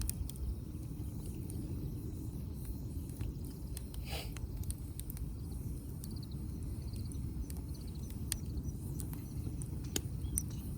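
Wood fire burning in a fire pit, crackling with scattered sharp pops and one louder pop about four seconds in, over a steady low rumble.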